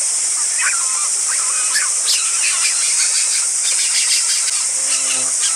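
Birds chirping in short, quickly varying twitters over a steady, high-pitched insect drone. Near the end a held, pitched squeal-like call begins.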